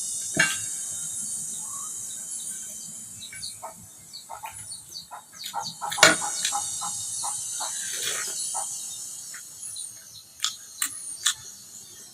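Eating sounds: scattered crunches, clicks and smacks, the loudest about six seconds in, over a steady high-pitched chirping that repeats about once a second.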